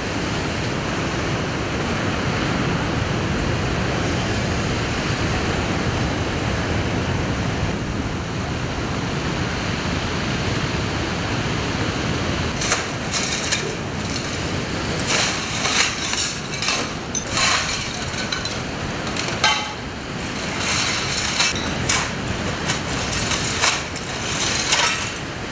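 Heavy sea surf with wind rushing. About halfway through, a run of sharp clicks and knocks starts and repeats irregularly over the noise.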